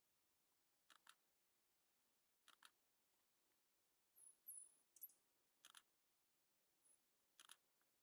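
Faint, sharp clicks, a few of them in pairs, and several very high, thin chirps from small birds near the middle, all over near-quiet forest ambience.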